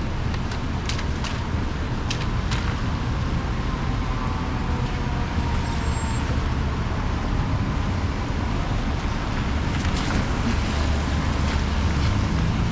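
City street traffic on wet roads: a steady low rumble of passing vehicles with tyre hiss, and a few sharp clicks a second or two in.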